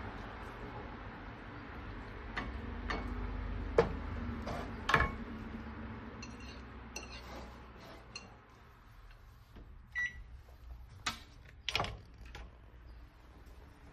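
Kitchen clatter: scattered clinks and knocks of dishes and utensils, a few of them ringing briefly, over a low steady hum.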